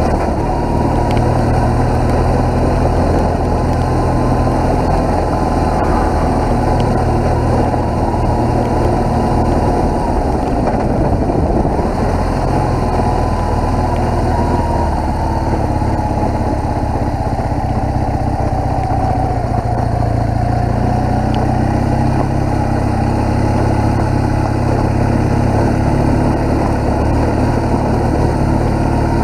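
BMW R1200GS boxer-twin engine running under way, steady, with the pitch easing off about a third of the way through and dipping and picking up again about two-thirds in.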